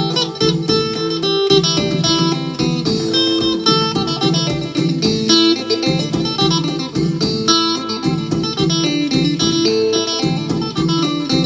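Phin, the Isan Thai plucked lute, playing a lively tune in quick plucked notes over sustained lower notes.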